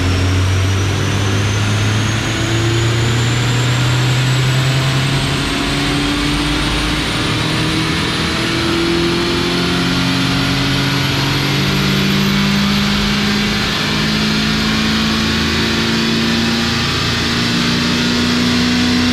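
Mazda MX-5 Miata (NC) four-cylinder engine pulling under load on a chassis dyno. Its pitch climbs slowly and steadily through a long run, with a thin high whine rising alongside it.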